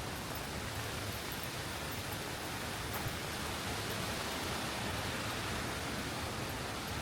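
Steady hiss of a gentle rain shower falling, even and unbroken, with one small tick about three seconds in.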